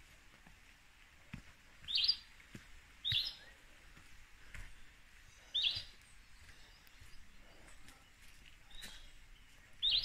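A forest bird calling: a short, sharp chirp repeated five times, one to three seconds apart. Soft footsteps on the path can be heard faintly underneath.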